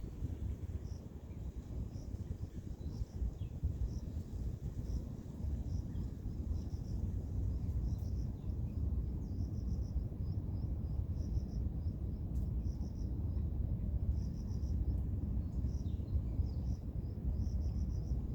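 Insects chirping: short pulsed chirps repeating in little groups, more of them in the second half, over a steady low rumble that is the loudest part of the sound.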